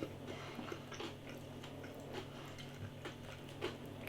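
Faint chewing of a breaded chicken fillet burger, a few soft scattered clicks of the mouth, over a low steady room hum.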